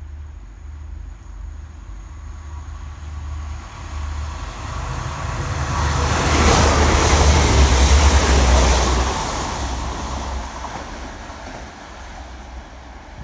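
Diesel train passing along the track: its low rumble and wheel noise swell, are loudest about six to nine seconds in, then fade away.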